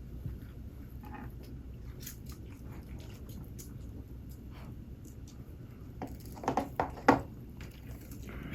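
Close-miked eating: soft chewing and small mouth clicks, then a cluster of louder crunchy bites about six to seven seconds in.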